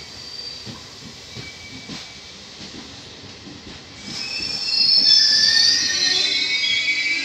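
Passenger coaches of a regional train rolling slowly into a station, wheels clicking regularly over the rail joints; about four seconds in the brakes start to squeal loudly and keep squealing as the train slows to a stop.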